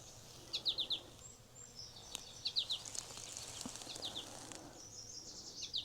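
Small birds chirping in quick runs of three or four short falling notes, repeated several times.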